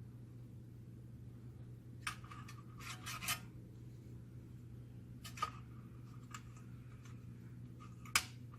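Small parts of a laser printer fuser unit being handled. A quick run of light metallic clicks and scraping comes about two to three seconds in, a single click midway, and a sharper click near the end. A steady low hum runs underneath.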